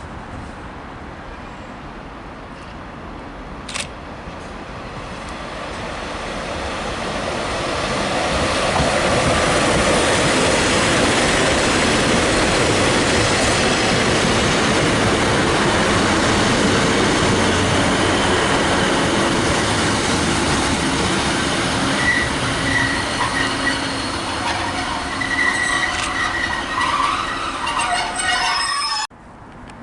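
A train approaching and running past at close range: its noise builds over several seconds to a loud, steady rumble. High-pitched metallic squealing joins in over the last several seconds, and the sound cuts off suddenly just before the end.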